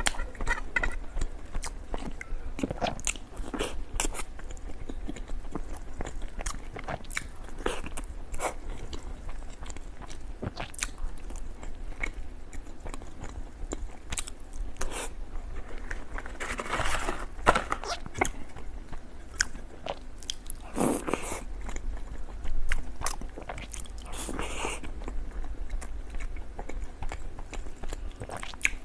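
A person eating desserts close to the microphone, biting and chewing with many sharp crunches. There are a few louder, longer bites a little past halfway.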